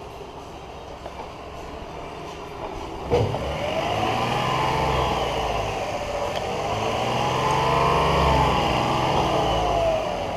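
2006 Lexus RX 400h's 3.3-litre V6 engine catching about three seconds in, then revving up and back down twice.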